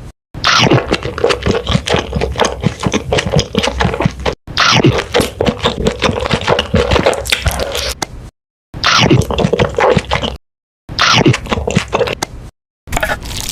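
Loud close-up eating sounds from a mukbang: dense crackly chewing and biting, broken off abruptly by short silences several times.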